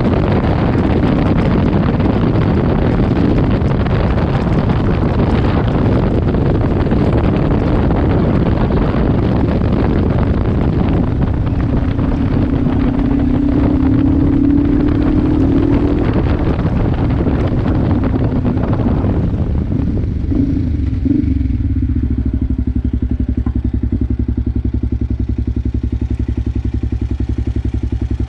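Kawasaki KLE 500's parallel-twin engine running under way with wind rushing over the microphone. About two-thirds of the way through, the bike slows and the engine settles into a steady idle.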